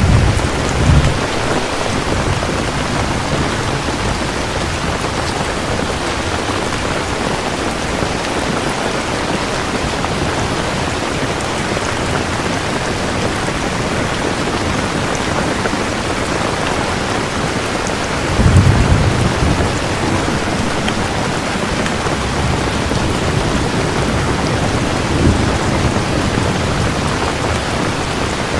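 Steady heavy rainfall with low thunder rumbles about a second in, a longer rumble about eighteen seconds in, and a short one near twenty-five seconds.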